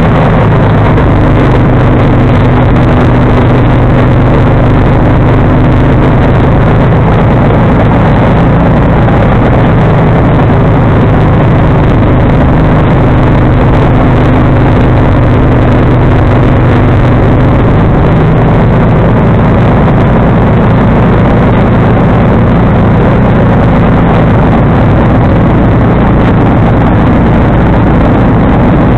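John Deere 445 garden tractor's Kawasaki V-twin engine running loud and steady, driving a 47-inch front snowblower.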